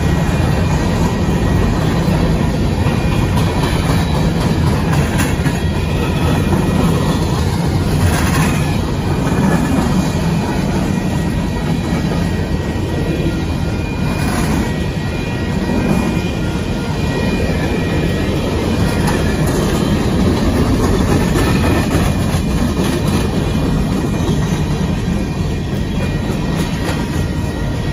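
Union Pacific coal train's cars rolling through a grade crossing: a steady, heavy rumble with wheel clatter on the rails. A faint high wheel squeal comes and goes.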